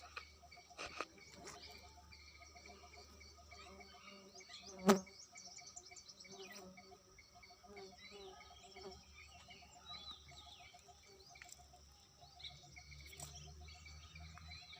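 Faint buzzing of bumblebees at their nest, over a steady rapid chirping of insects. A single sharp knock about five seconds in.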